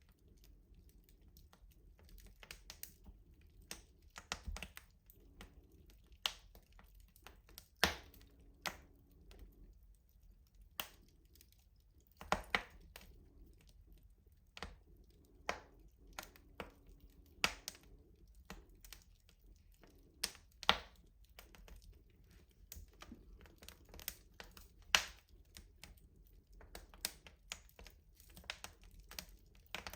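Wood fire crackling in a rustic wood-burning stove: irregular sharp snaps and pops, a handful of them much louder, over a faint steady low rumble.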